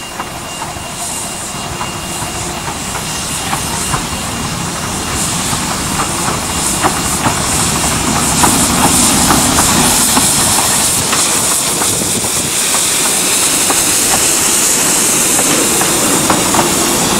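Small light-railway train drawing closer, growing steadily louder with hissing and the click of wheels over rail joints. Wind buffets the microphone.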